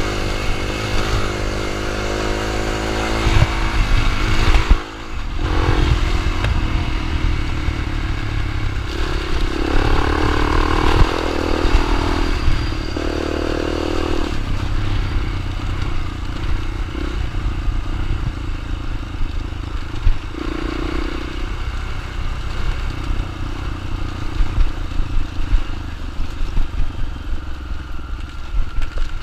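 Small dirt bike engine running and revving up and down repeatedly, over a steady low rumble, with a brief drop about five seconds in.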